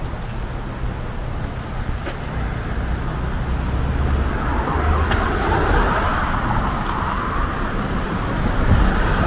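Street traffic on a wet road: a steady low rumble, with a car passing about halfway through, its tyres hissing on the wet pavement as it swells and fades.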